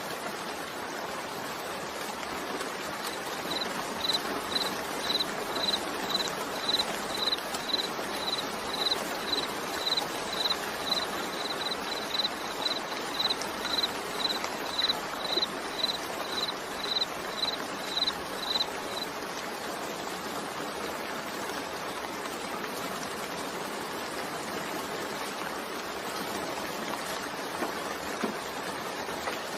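Steady rain falling. From a few seconds in until past the middle, a short high note repeats about twice a second, then stops.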